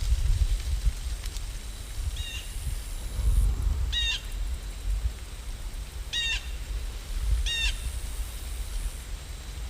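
A bird calling four times, short pitched calls every second or two, over a low steady rumble.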